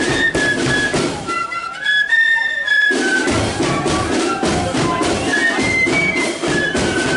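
Marching flute band playing a tune: massed flutes carry a stepping melody over a steady beat of drums, which drop back briefly about two seconds in.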